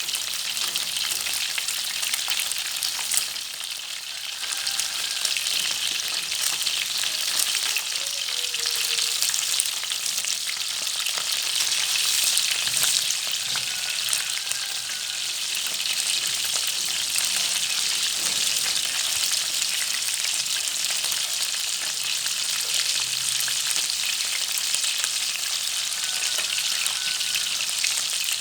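Small freshwater field fish frying in hot oil in a pan: a steady sizzle with many small crackling pops.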